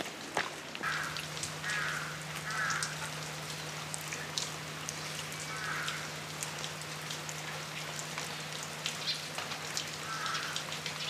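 Rain falling, with scattered individual drops striking nearby surfaces. A short call from an unseen animal comes about five times through it, and a steady low hum starts about a second in.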